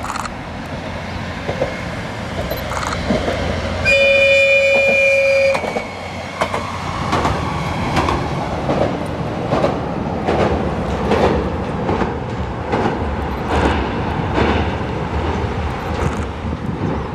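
Hai-Mo 295 diesel railcar sounding one long horn blast about four seconds in, then crossing a steel truss bridge with its wheels clacking over the rail joints in a steady rhythm.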